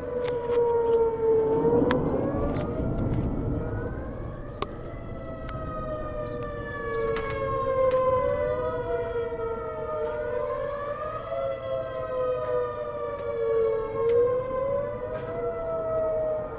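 Whelen Vortex outdoor warning siren sounding a tornado warning, several tones sliding up and down in overlapping sweeps every couple of seconds. Wind rumbles on the microphone underneath, gusting about two seconds in.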